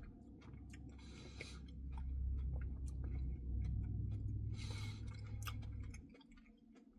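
Faint, close-miked eating sounds from someone eating a Cookie Dough Blizzard: small wet clicks and chewing, with two short hissy rustles. A low rumble underneath stops about six seconds in.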